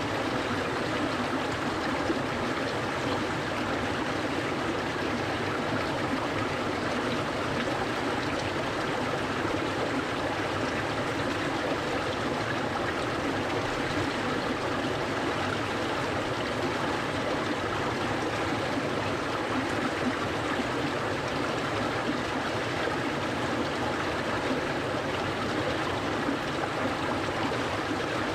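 A clear mountain stream flowing steadily, a constant rush of water with no changes.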